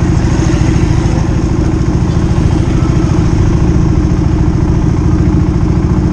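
Motorcycle engine running loud and steady, holding one speed with no revving.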